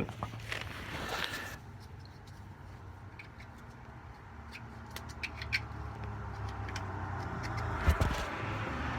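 Small clicks and rattles of parts being handled, then a sharp thump about eight seconds in as something is dropped, over a low steady hum.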